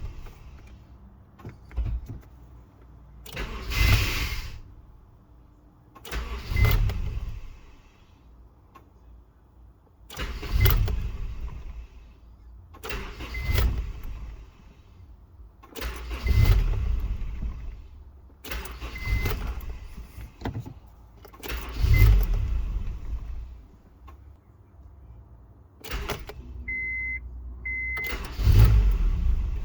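A 1999 Honda CR-V engine is started again and again, about nine times. Each attempt runs for only a second or two before going quiet, which fits the car's intermittent no-start and engine cut-off fault. Two short beeps come just before the last attempt.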